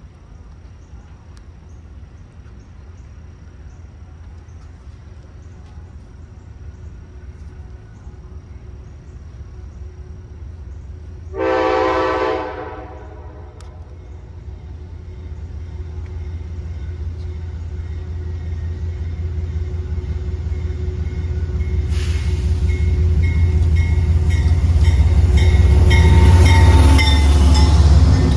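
Train approaching, its rumble building steadily, with one horn blast of about a second and a half roughly eleven seconds in. Wheel and rail noise grows louder toward the end as the train draws near.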